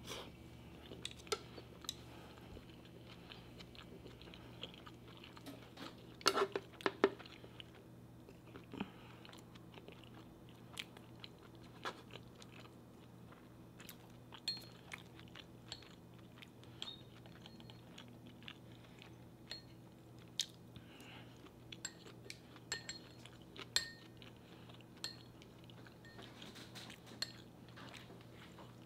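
A person quietly chewing bites of sushi roll, with scattered sharp clicks and a louder cluster of them about six to seven seconds in.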